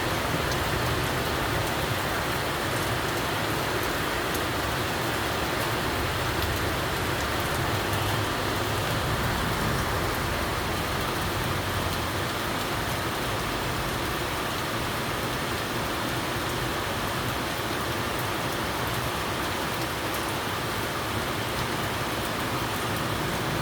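Steady rain falling, an even hiss that holds at the same level without a break.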